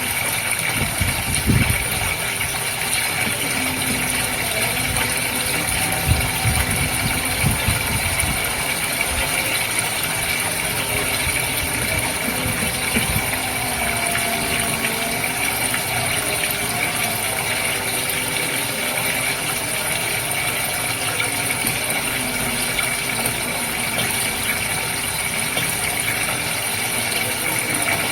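Goldfish aquarium's water pump and filter running steadily, with flowing, splashing water and a constant hiss. A few short low bumps come in the first half.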